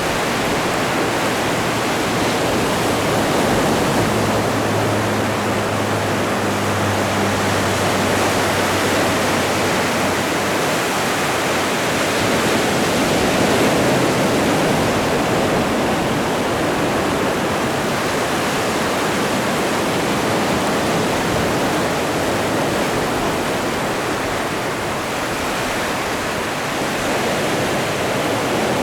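Atlantic ocean surf: a continuous rushing wash of breaking waves, swelling and easing slowly in level.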